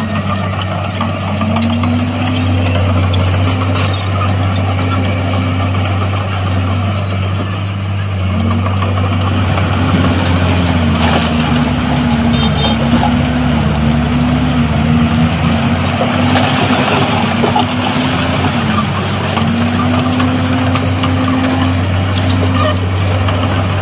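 Heavy diesel engine of earth-moving machinery running hard, with a steady low drone and a higher engine note that dips and climbs back again and again.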